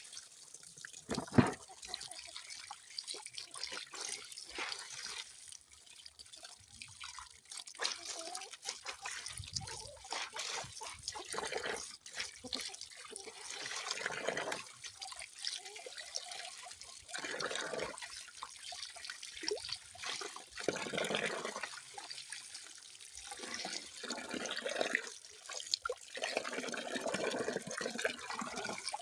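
Water trickling and splashing in irregular swells, louder and softer by turns, with a sharp knock about a second in.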